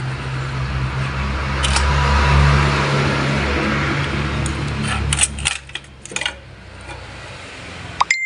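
A steady low machine hum with a hiss over it, which cuts off about two-thirds of the way in, then a few sharp metallic clinks and clatters of transmission parts being handled, and a short ringing ding near the end.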